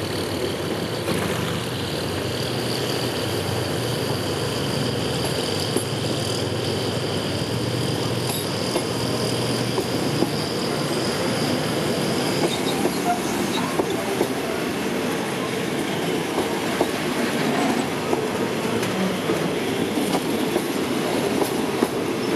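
Thai passenger railway carriages rolling past close by, their wheels clicking and knocking over the rail joints. A steady high squeal runs through the first half and stops about twelve seconds in.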